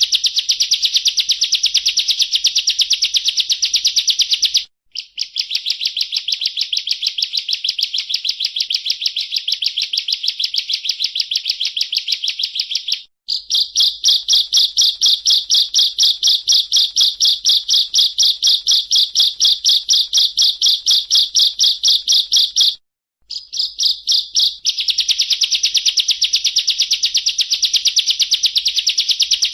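Bar-winged prinia (ciblek) singing a loud, rapid trill of evenly repeated high notes, the 'ngebren' style of song. It breaks off briefly about 5, 13 and 23 seconds in.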